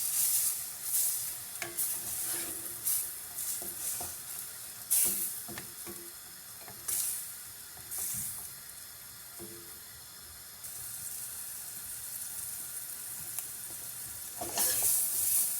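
Large prawns sizzling as they sauté in hot oil and tomato sauce in a frying pan, being stirred. The sizzle surges louder several times and settles into a steadier, quieter hiss for a few seconds before flaring up again near the end.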